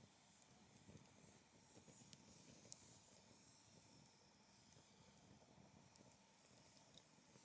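Faint crackling of a wood fire burning in a folding fire-pit stand: scattered sharp pops, the loudest about two and a half seconds in, over a soft low rustle of flames.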